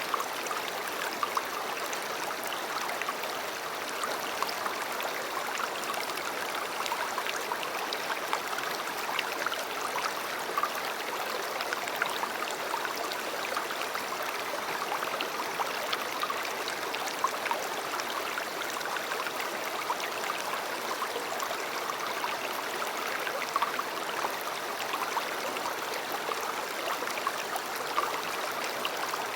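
River water flowing: a steady rush with many small splashes and gurgles.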